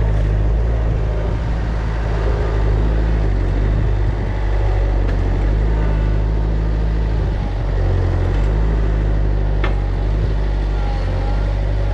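Bobcat 753 skid steer's diesel engine running under load while the machine works, its note dropping and picking up a few times as the load changes.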